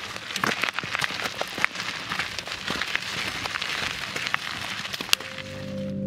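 Loaded wheelbarrow's single tyre rolling over gravel, grit and dry leaves on a dirt trail, a dense crunching with many small clicks and pops from stones under the wheel. About five seconds in, steady ringing musical tones come in and the crunching stops.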